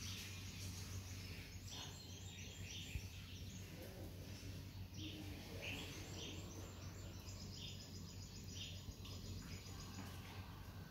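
Faint birds chirping in the background, short high chirps repeated irregularly, over a steady low hum.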